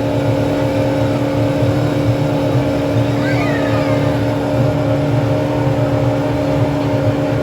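Boat motor running at a steady speed, a continuous even hum.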